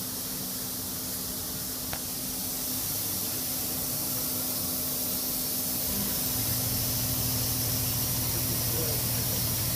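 Steady hiss of a compressed-air vacuum brake bleeder pulling fluid and air out of the brake lines. There is a single click about two seconds in, and a low steady hum joins about six seconds in.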